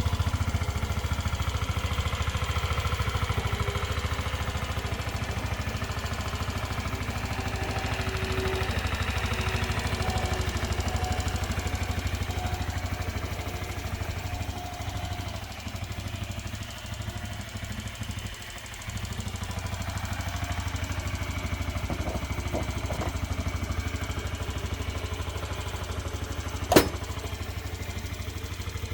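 Honda Zoomer AF58's 49 cc four-stroke single-cylinder engine idling with an even exhaust pulse. The level dips unevenly for a few seconds midway, and there is one sharp click near the end.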